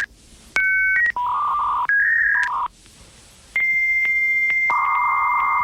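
Electronic telephone-style tones: a few short two-tone beeps like keypad dialing, then held steady beeps, and after a short gap a long high steady tone with a lower buzzing tone joining it near the end.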